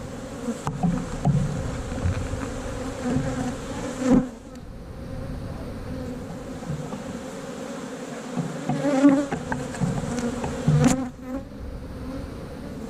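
Honey bees buzzing in a steady hum around an open, heavily packed hive, with a few short sharp knocks, the clearest about four seconds in and another near the end.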